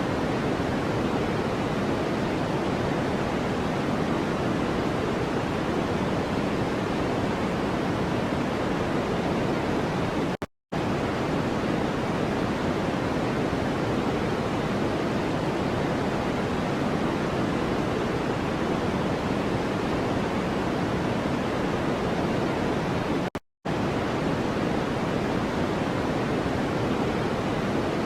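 Steady electronically generated white-noise-type hiss, weighted toward the low-middle like pink noise, with no pitch or rhythm. It cuts out briefly twice, about ten and twenty-three seconds in.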